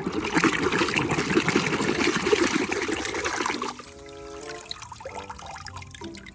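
Water running and splashing over a muddy toy being rinsed clean. It stops about three and a half seconds in, leaving a light background melody.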